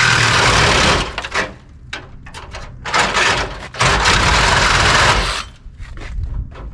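A power cutting tool running in bursts. One long run stops about a second in, followed by short blips and two more runs of about a second each.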